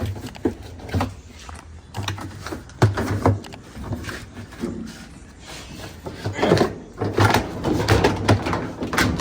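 Irregular knocks and clunks of a top-load washer's parts being handled and worked loose by hand, with a busier run of clattering toward the end.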